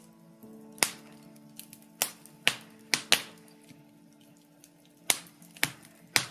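Birch logs crackling in a fireplace, with about eight sharp pops, several in quick succession a couple of seconds in and again near the end. Soft background music with held chords plays underneath.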